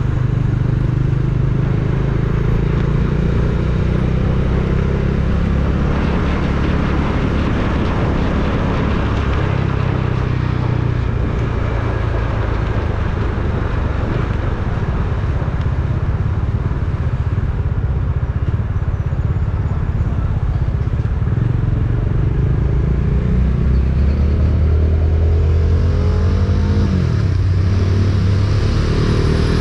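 Motor vehicle engine running steadily while driving, with road and wind noise over it. About 27 seconds in, the engine pitch drops and then climbs again, as in a gear change or slowing down.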